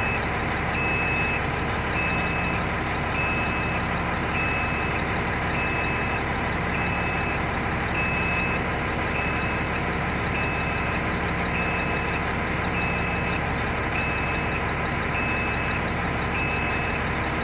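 A ship's engine running steadily, with an electronic alarm beeper sounding a short high beep about once every 1.2 seconds.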